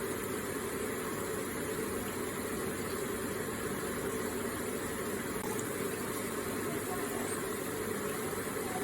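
Electric water feature running: water trickling and splashing in a steady, even flow.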